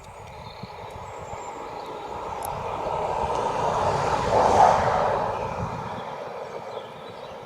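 A vehicle passing by: a rushing noise that swells, peaks about four and a half seconds in, then fades away.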